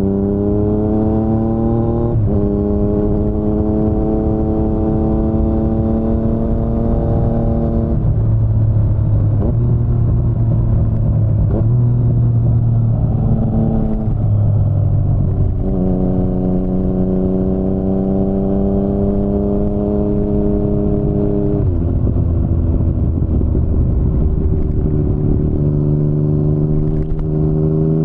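2019 Yamaha MT-09's three-cylinder engine through an Akrapovic carbon full-system exhaust, with wind rush underneath. The engine note rises under throttle with a gear change about two seconds in, then holds. It drops to a lower off-throttle note twice, at about a third and three quarters of the way through, with short blips in the first lull, and picks up again each time.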